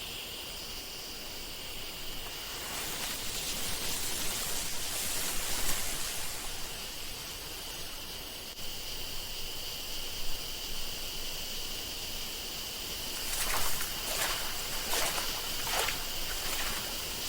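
Outdoor nature ambience: a steady high insect chorus over a soft wash of background noise, with a few short faint sounds near the end.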